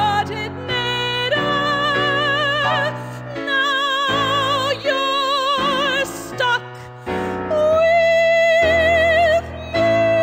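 A woman singing in an operatic style with strong vibrato over instrumental accompaniment, holding long notes. About three-quarters of the way through she holds one high note steadily.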